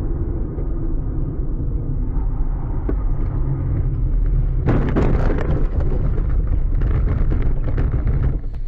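A car crash heard on vehicle audio: a steady low rumble of a moving car, then about halfway through a sudden loud crunch followed by several seconds of crackling, rattling impact and scraping noise.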